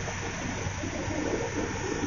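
Steady helicopter noise heard from inside the cabin: an even rushing drone with a low hum underneath, unchanging in level.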